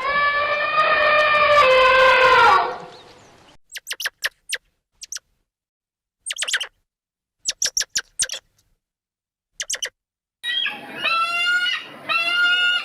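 Animal calls: a long, loud call falling slightly in pitch, then several groups of short high chirps like a bird's, then a run of repeated pulsing calls near the end.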